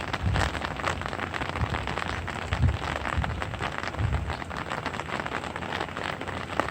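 Light rain falling, a dense steady patter of drops hitting surfaces, with a few brief low rumbles underneath.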